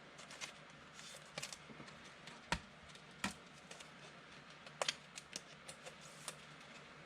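Trading cards being handled and flipped through: faint, irregular light clicks and taps of card stock, with a few sharper snaps.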